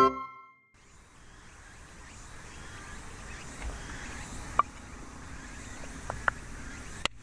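Outdoor ambience: a steady faint hiss with a few short, sharp ticks in the second half.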